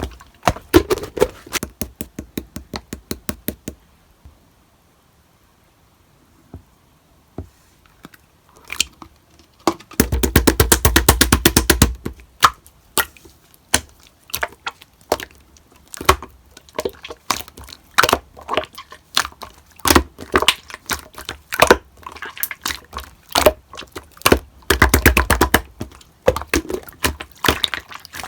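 Slime being pressed, poked and squished by hand, giving runs of crackling clicks and pops. Quiet for a few seconds early on, then two stretches of very rapid, dense crackling, a little after the middle and again near the end.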